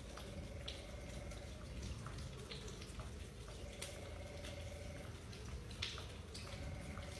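Rain dripping: scattered, irregular drops ticking over a low rumble. A faint steady hum comes and goes in the background.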